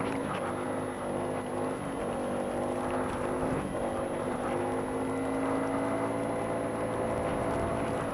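2007 Honda Ruckus scooter's small four-stroke single-cylinder engine running steadily under way, its pitch shifting a little now and then.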